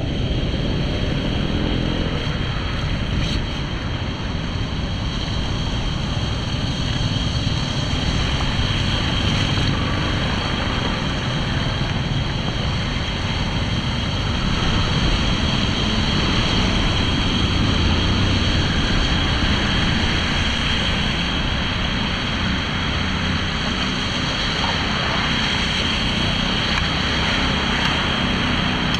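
Steady rushing of floodwater flowing away through a cleared drain, an even noise that holds at one level throughout.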